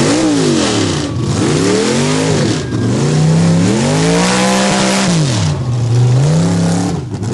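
Mud bog truck's engine revving hard, its pitch climbing and dropping four or five times as the throttle is pumped, over a loud rushing noise.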